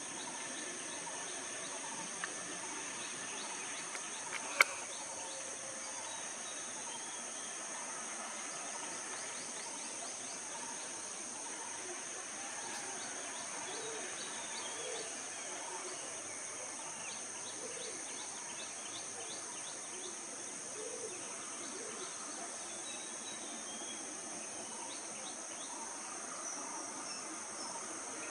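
Outdoor ambience of a steady, high-pitched insect drone, like crickets, with birds chirping on and off. A single sharp click about four and a half seconds in.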